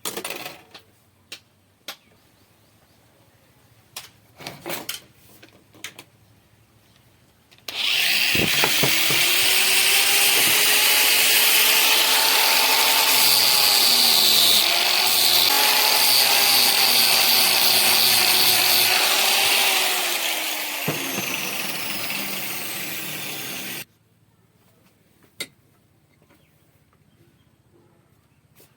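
A few light knocks, then an electric drill starts about eight seconds in and runs for about sixteen seconds, shaving wood as a wooden stick is rounded into a peg. The motor's pitch wavers and sags under load, then it cuts off suddenly.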